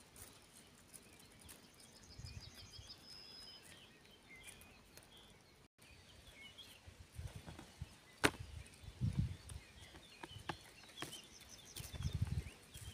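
Small songbirds chirping, with a short rapid trill a couple of seconds in. Low rumbles come and go, louder in the second half, and there is a single sharp click a little after the middle.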